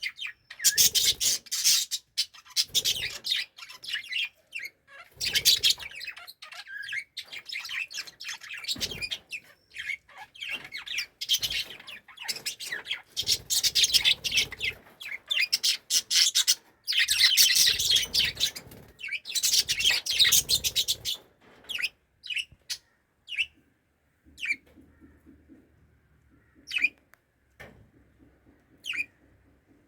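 Budgerigars chattering and chirping in dense, fast warbling runs, then thinning near the end to single sharp chirps a second or two apart.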